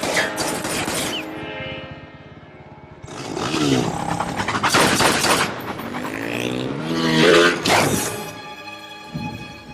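Action-film mix: a dramatic music score over motorcycle engines revving up and down, broken by several loud crashes and smashes.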